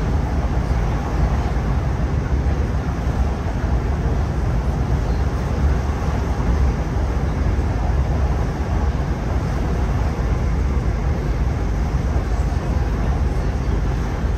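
Cabin noise inside a Class 165 diesel multiple unit on the move: a steady, unbroken low rumble from the running train.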